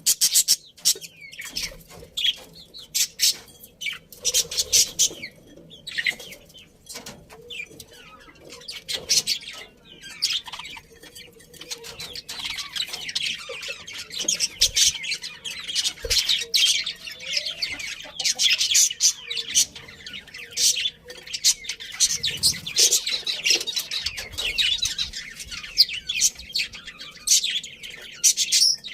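A colony of budgerigars chirping and chattering: many quick, high chirps overlapping, busier in the second half.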